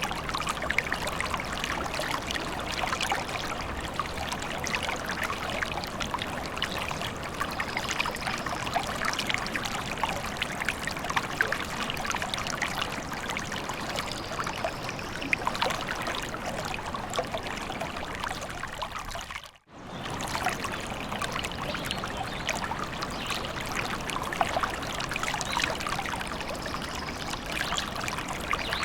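Small forest stream trickling and babbling steadily. The sound drops out for a split second about two-thirds of the way through.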